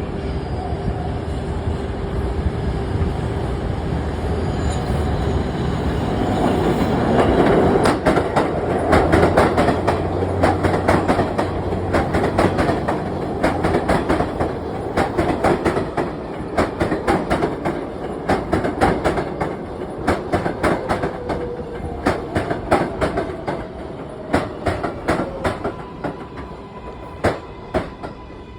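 A New York City Subway 7 train pulling into the station. It runs loudest about a third of the way in, then its wheels click over the rail joints, the clicks spacing out and fading as it slows. A falling whine comes near the end as it brakes.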